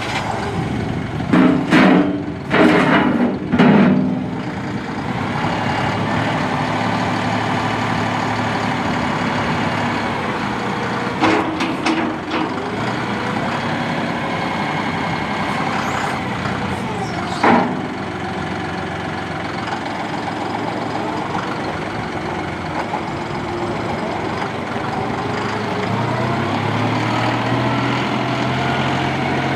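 John Deere 5055E's three-cylinder turbo diesel engine running steadily, with a few short loud noises in the first few seconds and two more later, and a change in engine speed near the end.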